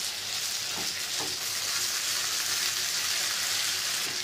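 Chicken strips with green pepper, onion and tomato slices sizzling in a stone-coated frying pan while being stirred with a wooden spatula: a steady high sizzle.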